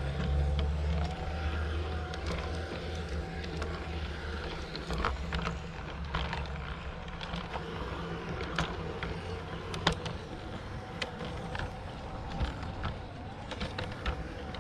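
G gauge model train running on garden track: a steady electric motor hum and whine with scattered sharp clicks from the wheels on the rails.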